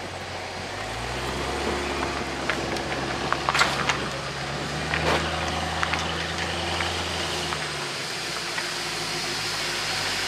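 Cadillac CT5-V sedan's engine running at low speed as the car creeps forward, a steady low note that drops away about eight seconds in, with a few short squeaks over it.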